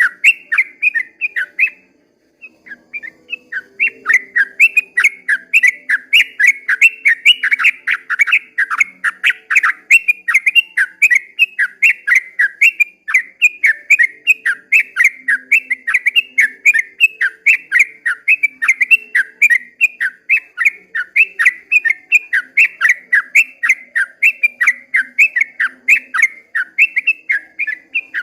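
Yellow-vented bulbul (trucukan) singing a long, fast run of bubbly chattering notes, about three a second, with a brief pause about two seconds in.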